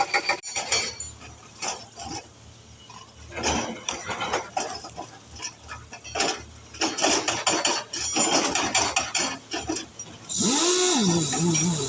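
Irregular metallic clanks and knocks around a crawler drilling rig after its machine sound cuts off. About ten seconds in, a loud steady hiss starts, with a whine that rises and falls in pitch.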